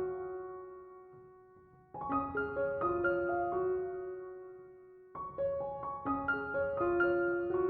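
Gentle background piano music: short phrases of a few quick notes that settle on a held note and fade away. New phrases begin about two seconds in and again about five seconds in.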